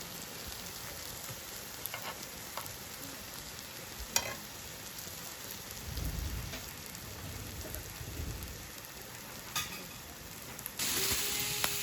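Food sizzling as it cooks over heat, a steady hiss with a few light clicks; the sizzle gets louder near the end.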